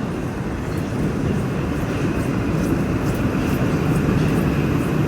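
Metro train's running rumble, steady and growing gradually louder, with a thin whine joining in about two seconds in.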